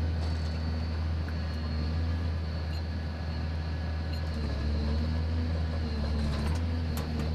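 A heavy engine running steadily with a deep, even hum, with a few faint clicks and knocks over it.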